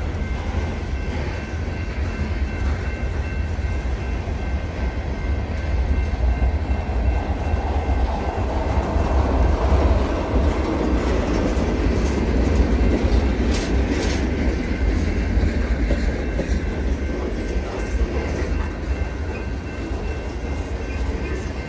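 Freight train cars rolling past: a steady rumble of steel wheels on rail with clickety-clack over the joints, swelling a little in the middle.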